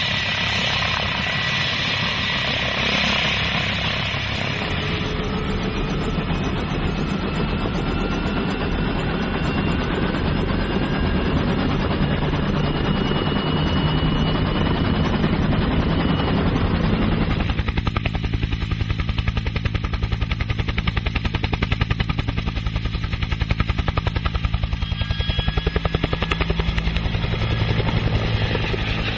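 Helicopter running, with a fast, steady beat from the rotor. About two-thirds of the way through, the hiss drops away and the beat becomes more distinct.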